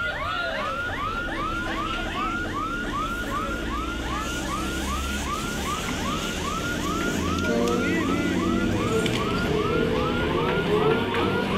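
Electric multiple-unit suburban train pulling out of a station: a low motor hum, then a wavering whine that rises as it gathers speed, over a steady chirping repeated about three times a second.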